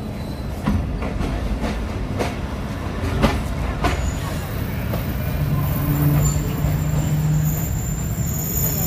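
Awam Express passenger train rolling slowly along a station platform: a low rumble with sharp clicks over the first few seconds. About halfway through, a steady low hum and a thin high-pitched squeal join in.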